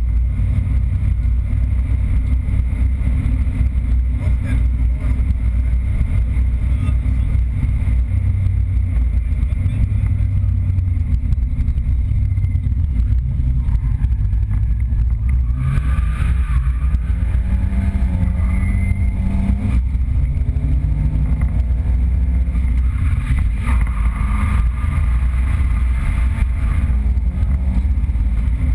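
Nissan 200SX drift car's engine heard from inside the stripped, caged cabin: a heavy low rumble throughout, with the revs climbing and dropping in sweeps about halfway through and again near the end.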